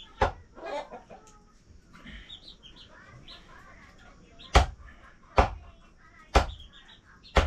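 Five sharp knocks at uneven spacing, the loudest about four and a half seconds in, amid kitchen work with a blade and pots. Chickens cluck faintly between the knocks.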